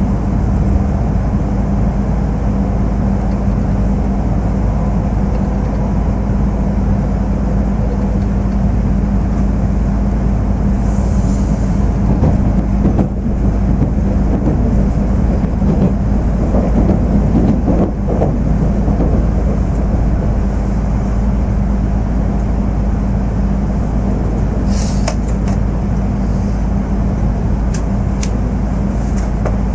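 Cabin noise inside a Tohoku Shinkansen E5 series train as it pulls out of the station and runs on the viaduct: a steady low rumble and hum from the running gear and traction, with a few faint clicks late on.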